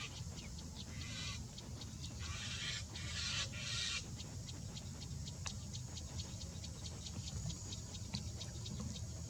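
Birds making short raspy hissing bursts, several times in the first half. After that comes a long run of quick clicks and ticks over a low background rumble.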